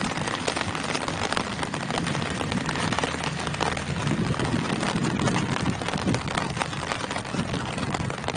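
Steady rain falling on tree leaves, a dense hiss made up of many small drop ticks, with some low rumbling underneath.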